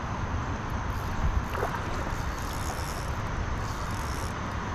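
Steady outdoor background noise with a low rumble, with a faint brief tap about a second and a half in.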